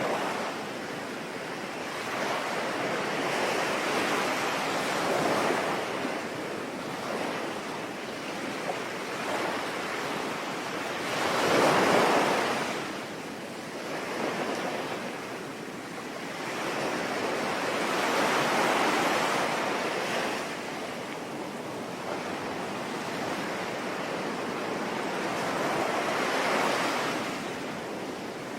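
Ocean waves surging and washing in, swelling and ebbing about every seven seconds, the loudest about twelve seconds in, over a steady hiss of rain.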